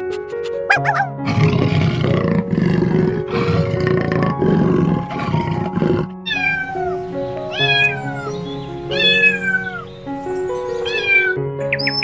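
A big cat growling in rough, rapid pulses, followed by a series of high calls that each fall in pitch, like meows, over background music.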